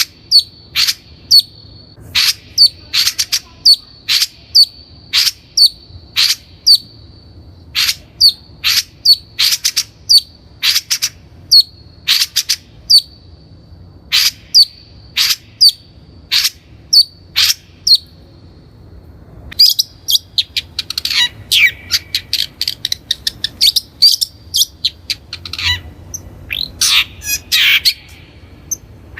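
Long-tailed shrike calling: a steady series of sharp, short notes about two a second over a thin, steady high tone. The tone stops about two-thirds of the way through, and the notes then turn into a faster, busier chatter.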